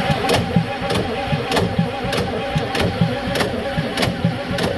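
The starter motor cranking a 7.3 IDI V8 diesel engine without it firing: a steady starter whine under a regular chug from each cylinder's compression stroke. The engine is being cranked for a compression test.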